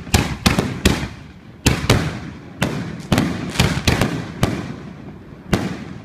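Consumer fireworks going off: about a dozen sharp bangs at uneven intervals, some in quick pairs and triplets, each with a short echoing tail.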